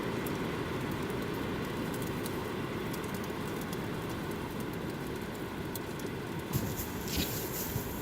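Steady wind rumble, with a few soft crunching steps in deep snow near the end.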